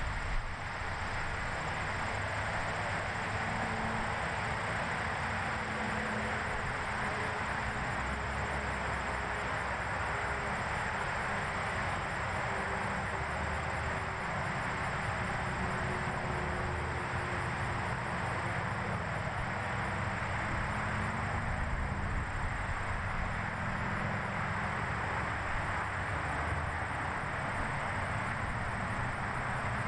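Steady outdoor background noise: an even hiss with a low rumble underneath that holds at the same level throughout.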